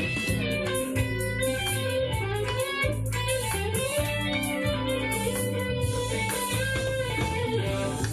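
Electric guitar played through a Zoom G3X multi-effects pedal set to its MS Crunch amp model, a mildly overdriven tone. Chords and single notes are played without a break.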